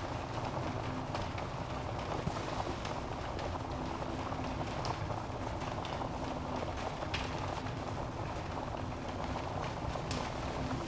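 Wood fire burning in a fireplace: a steady hiss and rumble of flames with irregular sharp crackles and pops from the logs.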